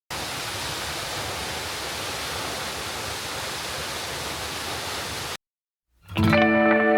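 Steady rush of a waterfall, cut off suddenly about five seconds in. After a second of silence, ambient music with sustained guitar-like notes begins.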